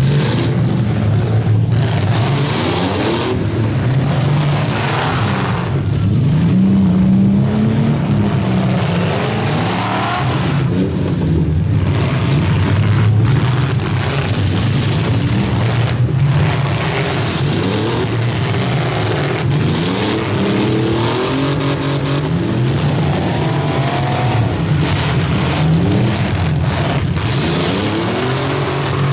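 Several demolition derby cars' engines revving hard at once, their pitches rising and falling over each other as the cars accelerate and reverse around the arena.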